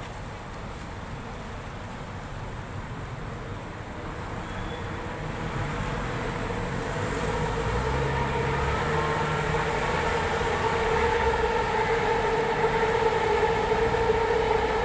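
Electric light-rail train running, with a steady motor whine in two tones that grows louder through the second half along with the rumble of the cars.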